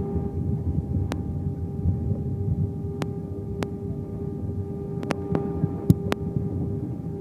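Airbus A319 cabin noise: a steady low engine and airframe rumble with a steady hum, broken by several sharp clicks or rattles.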